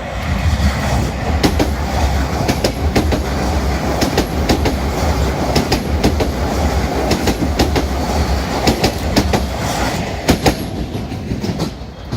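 JR Kyushu 305 series electric multiple unit passing close by: a loud low rumble with a rapid run of clacks as its wheels cross the rail joints, dying away near the end.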